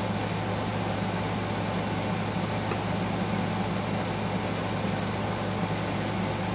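Steady low mechanical hum of a running motor or fan, unchanging, with a couple of faint small clicks.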